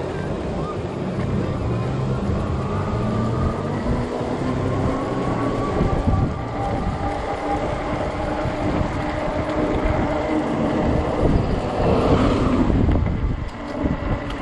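Wind buffeting the microphone of a moving Ecotric 48 V fat-tire e-bike, with a steady whine from the bike's motor that drifts slowly in pitch. A louder gust swells about twelve seconds in.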